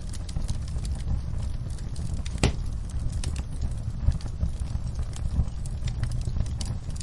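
Wood fire crackling: scattered pops and snaps over a low, steady rumble, with one louder pop about two and a half seconds in.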